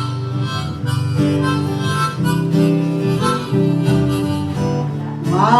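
Instrumental fill in a country song: harmonica playing a melody of held notes over acoustic guitar.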